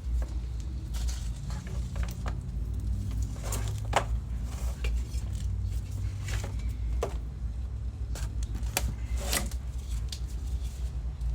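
Scattered light clinks and taps of small hard objects, the sharpest about four seconds in and two close together about nine seconds in, over a steady low rumble.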